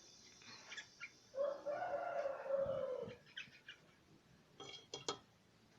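A rooster crowing once, one long call of nearly two seconds that falls away at the end. Short sharp clicks and chirps come before and after it.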